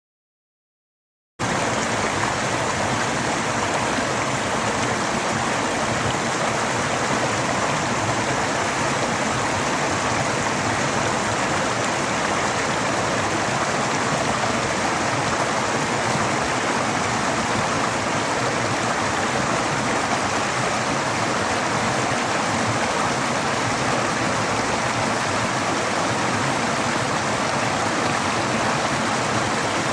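Running water rushing steadily, cutting in suddenly after about a second and a half of dead silence.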